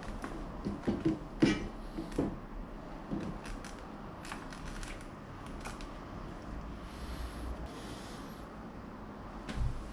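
Scattered light clicks and knocks of hand work with tools and parts, the loudest about a second and a half in, with a few more near the end.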